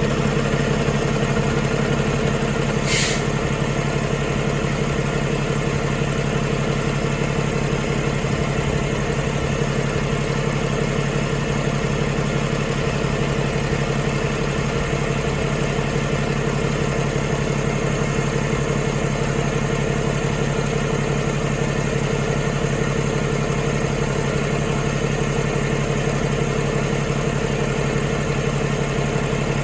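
Cummins ISX15 15-litre inline-six diesel engine idling steadily. A brief hiss sounds about three seconds in.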